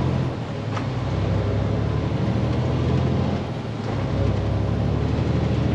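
Diesel truck engine running steadily while driving, its low hum dipping briefly about half a second in and again about four seconds in.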